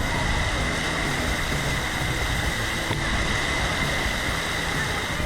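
Steady rushing of water spraying and splashing from water-play fountains, with a faint steady whine running underneath.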